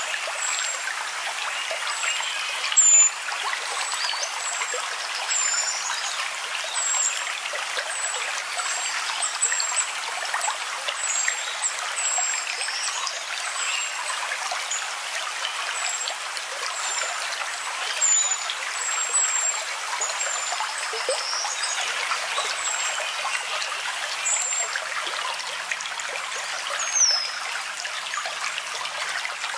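Nature ambience of a trickling stream, with short high bird chirps repeating throughout.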